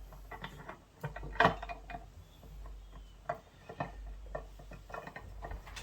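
Scattered metal clicks and knocks of transaxle gears and shafts being handled and seated in the gear case, the loudest knock about a second and a half in.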